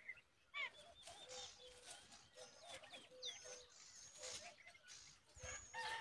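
Faint bird chirps and calls: many short whistled notes that slide up and down, repeating throughout, with a low note recurring underneath.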